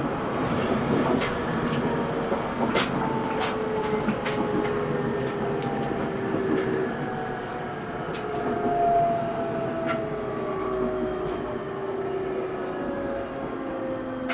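Cabin of an E127 series 0 electric multiple unit in motion: a steady running rumble with the traction motor whine falling slowly in pitch as the train slows, and scattered sharp clicks from the wheels over rail joints.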